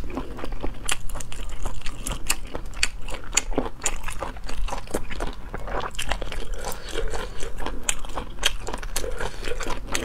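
Close-miked chewing of sea snail meat: a quick, irregular run of wet mouth clicks and smacks.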